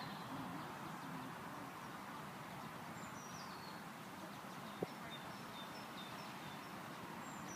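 Quiet outdoor ambience with a steady background hiss. A small songbird sings a high falling phrase, then short repeated chirps, and starts the phrase again near the end. A single sharp click comes about halfway through.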